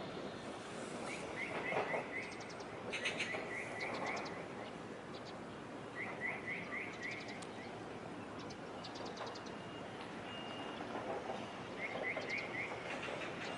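Small birds chirping in short runs of four or five quick notes, repeated several times, with a few higher trills and brief whistled notes, over steady background noise.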